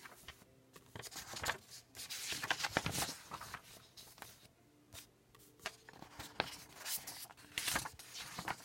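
Irregular rustling of paper pages with light knocks and scrapes, from handling the proof pages.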